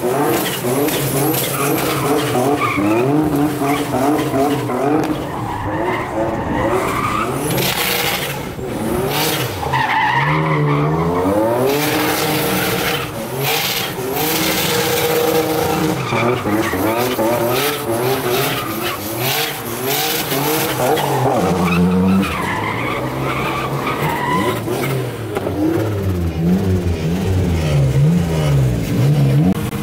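Turbocharged Nissan 350Z's V6 engine revving up and down repeatedly under load while the rear tyres spin and squeal in a smoky burnout or drift.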